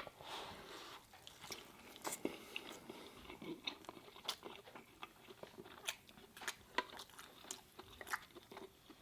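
A person biting into and chewing a mouthful of jerk chicken Philly sandwich loaded with fries, close to the microphone. Irregular wet clicks and soft crunches of chewing run throughout.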